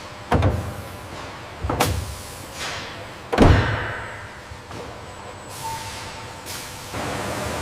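Three heavy thuds about a second and a half apart, the third the loudest, over a steady background hiss that gets a little louder near the end.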